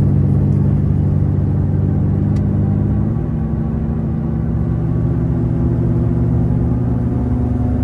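Infiniti G37's VQ37 V6 with a loud aftermarket exhaust droning steadily while driving; the pitch drops slightly about three seconds in, then holds.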